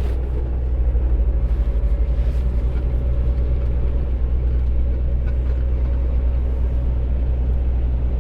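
Semi truck's diesel engine running under way, a steady low drone that holds level throughout.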